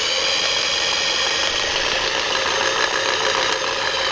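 Electric drill running steadily as its bit bores into an aluminum jet ski exhaust manifold, enlarging a small pipe port for a half-inch water line fitting.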